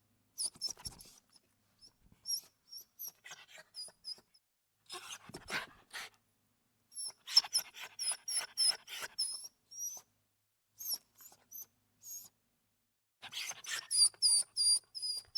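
A dog whining in many short, high-pitched squeaks, with breathy huffs in between. The squeaks come in clusters, busiest about halfway through and again near the end.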